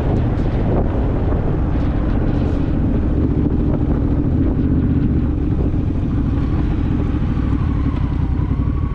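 Honda Rebel motorcycle's parallel-twin engine running steadily on the road, with wind noise on the microphone.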